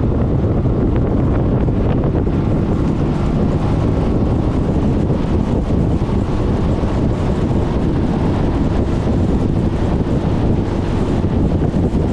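Steady wind rushing over the microphone of a GoPro mounted on a moving Suzuki Burgman 400 scooter, with the scooter's running and road noise blended underneath.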